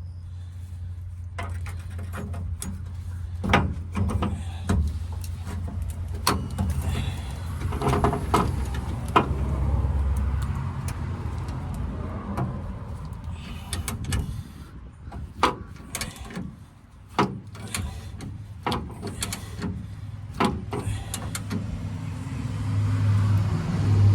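Locking pliers (vise grips) working seized bolts: irregular metal clicks, knocks and scrapes as the grips bite and slip, over a steady low hum.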